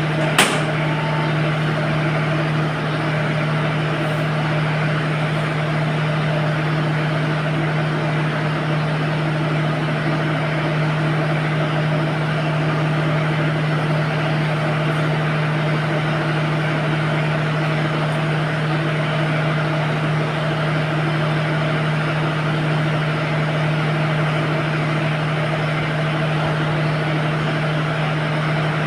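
An engine running at a steady speed, a constant drone with no change in pitch. A single sharp click comes about half a second in.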